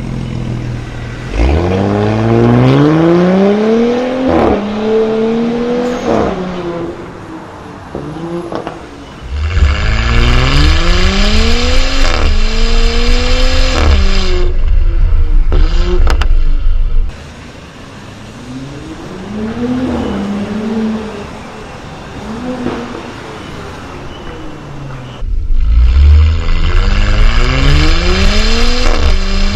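Porsche Cayenne's 3.0-litre turbocharged V6 through an aftermarket valved exhaust, revving up and dropping back several times. About ten seconds in, and again near the end, a rev comes with a much louder, heavier rumble and rushing noise that lasts several seconds.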